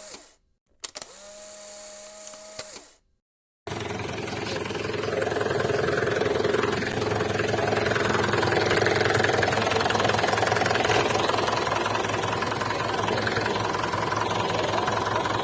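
A short electronic-sounding tone plays, cuts off and repeats, then after a brief silence a heavy vehicle engine runs steadily.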